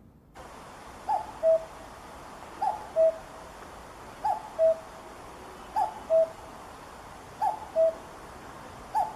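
Common cuckoo calling its two-note "cuck-oo", a higher falling note then a lower held one, repeated six times at an even pace of about one call every second and a half, over a steady hiss.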